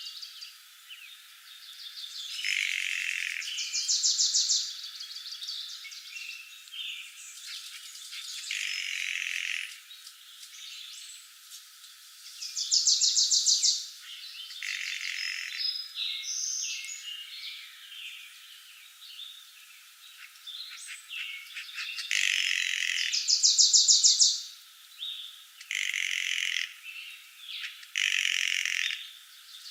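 Several birds singing and calling over one another in a forest chorus, with a loud, rapid trill returning about every ten seconds. All the deep sound is cut away, so the chorus sounds thin and high.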